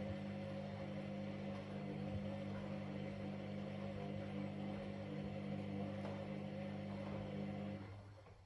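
Washing machine running with a steady motor hum and a slightly wavering whine, which falls away and dies out near the end.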